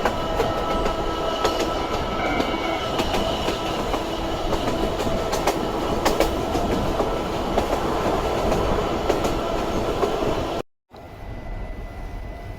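Narrow-gauge electric train with nose-suspended traction motors running, a steady whine over the wheel and track noise, with scattered clicks and clatter. It cuts off abruptly about ten and a half seconds in, and a quieter train sound follows.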